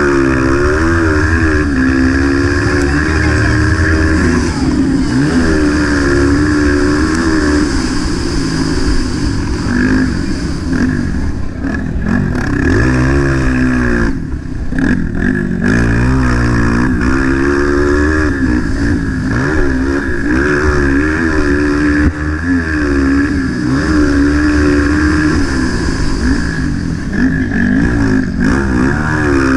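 Motocross bike engine revving hard and repeatedly, its pitch climbing and dropping every second or two as the throttle opens and closes, with a steady rush of wind noise.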